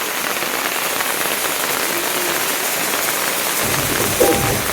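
Steady rain falling hard on surfaces, a dense even hiss, with a low rumble added about three and a half seconds in.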